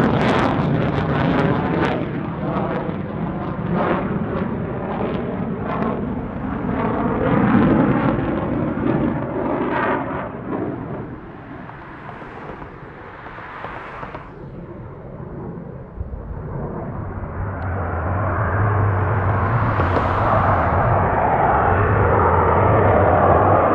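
Jet aircraft engine noise passing by, fading for a few seconds in the middle, then building up again toward the end.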